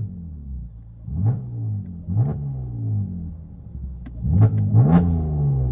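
Chevy Camaro 3.6L V6 revved in about four quick throttle blips through an exhaust with Dynomax Race Bullet resonators. Each blip rises sharply and settles back toward idle, and the last two come close together.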